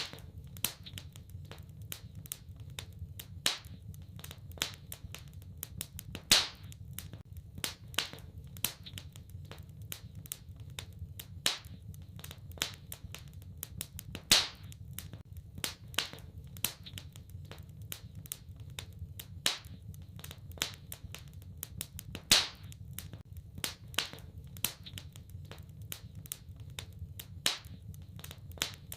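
Wood fire in a fireplace crackling: sharp pops every second or so, with a few much louder snaps, over a low steady rumble.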